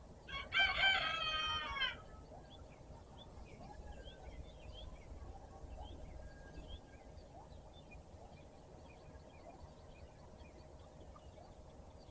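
A rooster crows once near the start, a single crow about a second and a half long and the loudest sound. Small birds chirp faintly through the rest.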